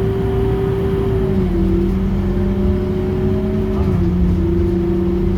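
Scania K230UB city bus's engine and drivetrain heard on board: a low rumble under a steady whine that steps down in pitch twice, about a second and a half in and again about four seconds in.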